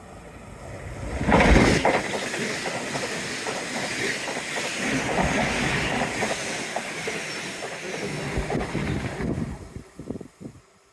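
A train passing close by on the seawall railway, its wheels clattering over the rail joints; it swells up about a second in and dies away near the end.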